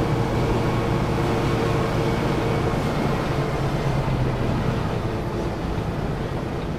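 Semi-truck's diesel engine running steadily as the rig moves slowly through the yard, a constant low hum.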